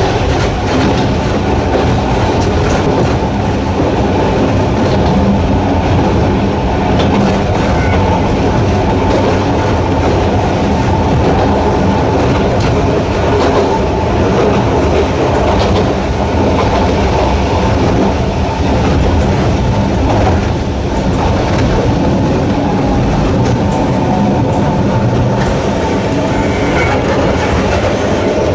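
Sangi Railway Hokusei Line 762 mm narrow-gauge electric train running steadily, its nose-suspended traction motors humming under a continuous rumble of wheels on rail.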